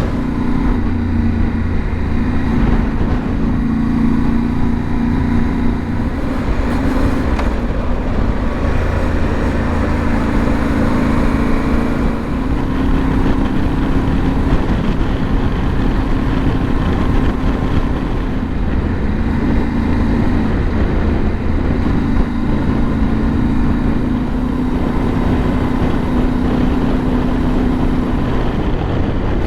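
Yamaha Ténéré 700's parallel-twin engine running under way with road and wind noise, its engine note stepping up or down a few times as the speed changes.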